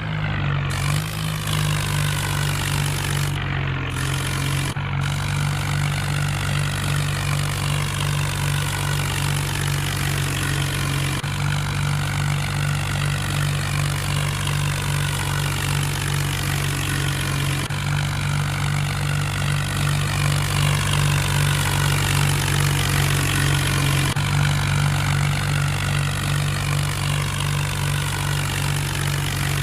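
Mahindra tractor's diesel engine running at a steady speed.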